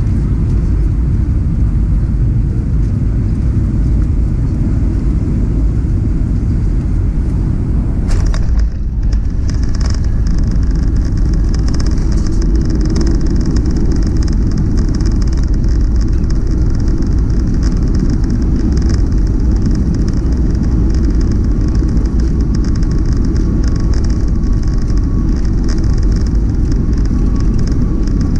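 Boeing 737 jet engines and airflow giving a loud, steady low rumble. About eight seconds in there is a sudden jolt, after which a higher hiss joins the rumble.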